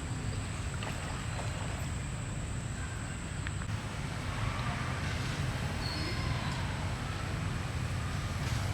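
Outdoor ambience: a steady low rumble under a soft even hiss, with a thin steady high tone and a few faint bird chirps about halfway through.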